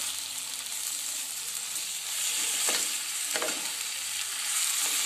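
Marinated chicken pieces with onions sizzling in hot oil in a nonstick pan as a spatula stirs them, with a steady hiss and a couple of short scrapes of the spatula, about two and a half and three and a half seconds in.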